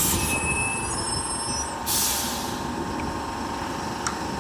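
Tram at close range: a steady rumble with two short bursts of hissing, one at the start and one about two seconds in, and faint thin high-pitched squealing tones.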